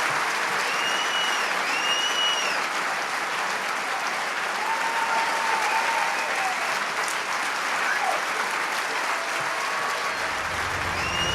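Audience applauding steadily, with a few short whistles rising and falling over it, twice near the start and once near the end.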